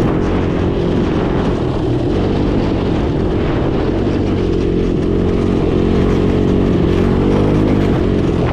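Small off-road vehicle engine running steadily, its pitch wavering slightly.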